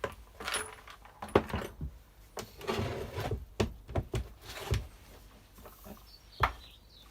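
Irregular knocks, clicks and scrapes of tools and plastic engine parts being handled during strimmer disassembly, with a sharp knock about a second and a half in and another near the end.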